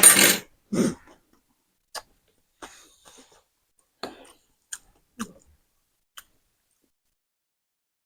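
Close-miked mouth sounds of eating spicy noodles: two loud noisy bursts right at the start, then scattered short smacks and clicks that stop about six seconds in.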